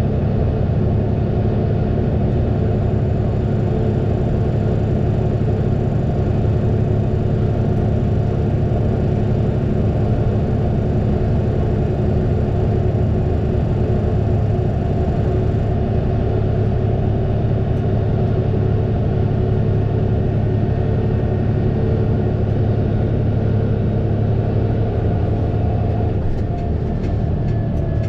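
Fendt 936 Vario tractor's six-cylinder diesel engine running steadily at an even pitch, with a low rumble. A faint falling whine and a few light ticks come in near the end.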